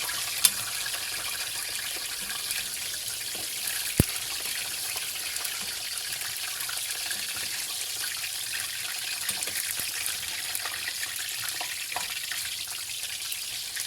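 Potato pieces shallow-frying in hot oil: a steady sizzle with fine crackling, and two sharp clicks, about half a second in and about four seconds in.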